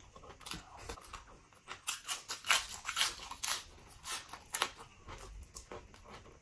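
Close-up wet chewing and lip-smacking of pork leg and rice: a run of short sticky clicks and smacks, densest around the middle.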